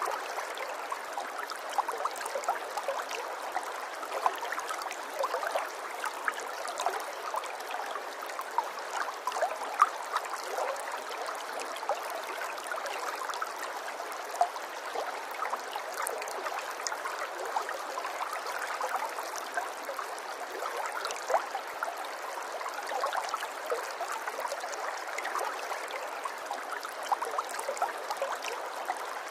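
Running water trickling and gurgling steadily, a continuous patter of small splashes with no low rumble.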